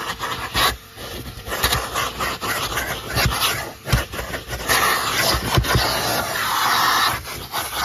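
1997 Numatic Sir Henry vacuum cleaner running, its nozzle knocking and rubbing over the car's surfaces. The suction hiss grows louder for a couple of seconds past the middle.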